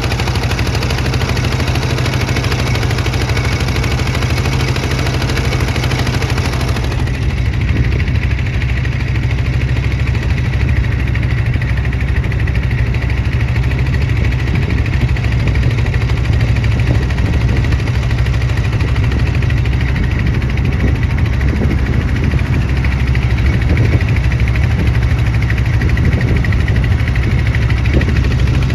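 Boat engine running steadily with a loud, low rumble. A broad hiss over it cuts back sharply about seven seconds in, leaving mostly the engine.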